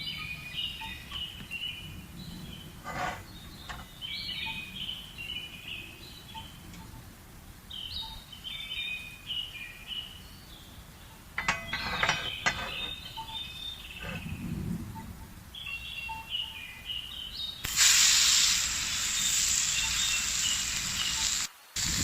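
A songbird sings short warbled phrases again and again, with a couple of light knocks between them. About eighteen seconds in, a loud, steady hiss starts and takes over.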